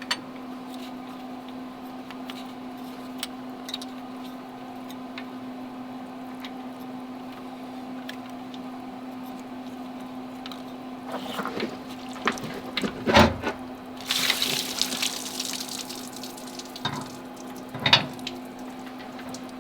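Engine coolant running and splashing out of a Cat 430D backhoe's engine as the coolant temperature sending unit is swapped, heaviest for a couple of seconds about three quarters of the way in. A few sharp metal knocks and clinks from the work, over a steady low hum.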